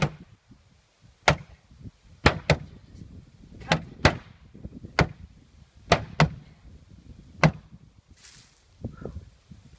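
Maul blows hammering a junk refrigerator: about ten sharp, hard strikes at an irregular pace of roughly one a second, some in quick pairs, ending after about seven and a half seconds.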